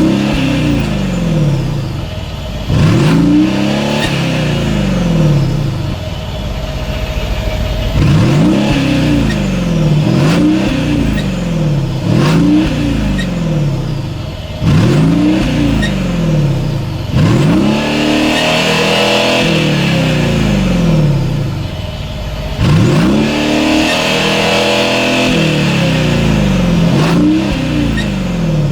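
Mercedes-Benz S550's V8 exhaust, the engine revved again and again: each blip jumps up in pitch and slides back down, about every two to three seconds.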